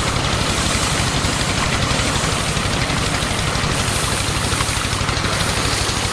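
Small motor of a homemade miniature tractor and threshing machine running steadily, with a rapid, even pulsing.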